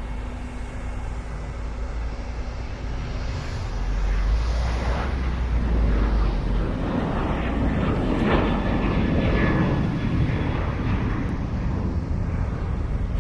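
Jet airliner's engines passing close by: a rushing rumble that swells about four seconds in, is loudest around the middle and eases off a little toward the end.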